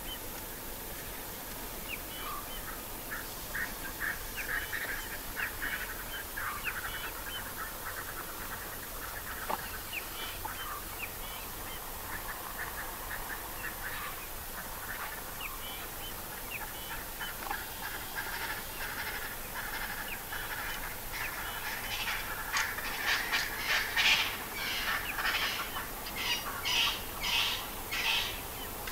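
Scattered short bird chirps, then over the last several seconds a run of loud, harsh honking calls, about two or three a second.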